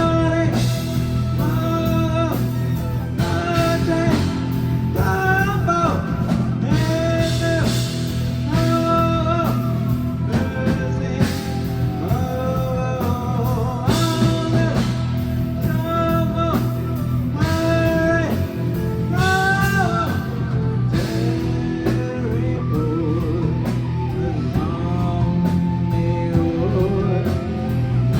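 Live rock band playing, with guitar and a melody of sliding notes over a steady low bass.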